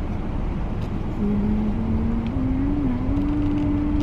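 Car engine and road rumble heard from inside the cabin. From about a second in, a single steady tone rises in small steps.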